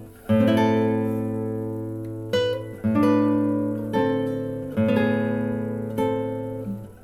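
Acoustic guitar with a cedar top and Indian rosewood back and sides, played unaccompanied: about six chords struck and left to ring and die away, recorded through a laptop's built-in microphone.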